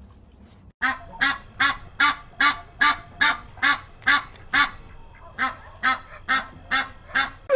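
Farm waterfowl calling: a rapid, even run of short honking calls, about two and a half a second, starting abruptly just under a second in, with a brief pause about five seconds in.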